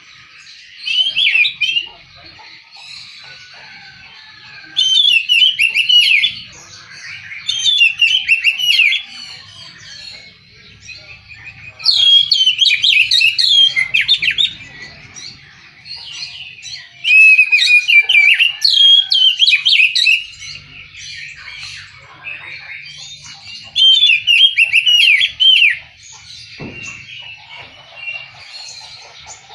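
Oriental magpie-robin (kacer) singing: about six loud, varied whistled phrases of one to three seconds each, broken by pauses of a few seconds.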